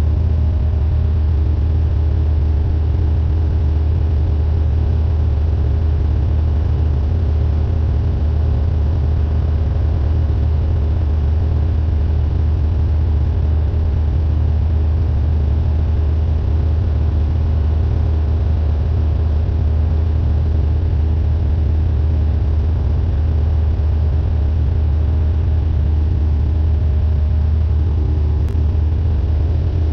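Cessna 172N's four-cylinder Lycoming engine and propeller running at a steady power setting: a loud, constant low drone that holds the same pitch throughout.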